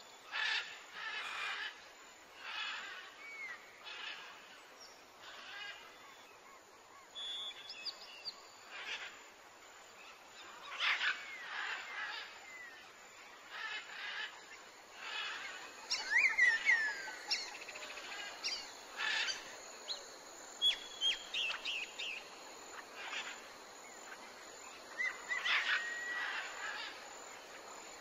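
Birds calling: many short chirps and whistled notes, some sliding down in pitch, coming thicker in the second half.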